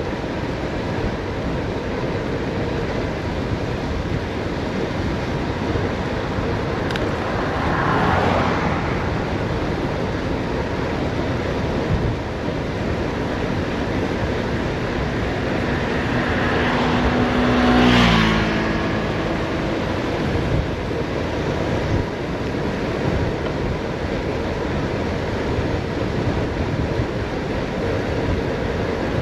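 Steady wind rush on the microphone of a bicycle riding downhill. A vehicle passes about eight seconds in, and a louder one passes about eighteen seconds in, its engine note falling in pitch as it goes by.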